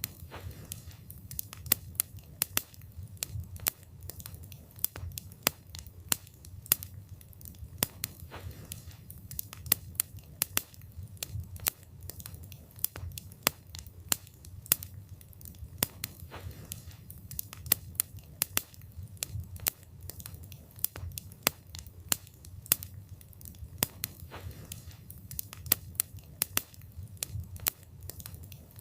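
Wood fire burning, with frequent sharp irregular crackles and pops from the burning wood over a low, steady rumble of flame.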